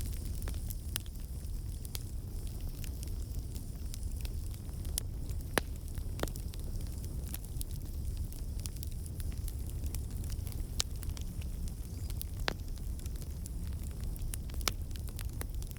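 Campfire burning: a steady low roar of flames with scattered sharp crackles and pops, the loudest pop about five and a half seconds in.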